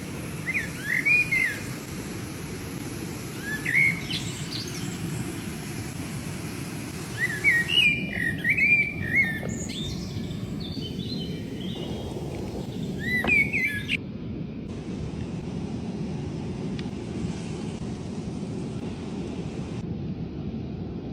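Wild birds chirping in short, repeated calls over a steady low rumble. The chirps stop about two thirds of the way through, leaving only the rumble.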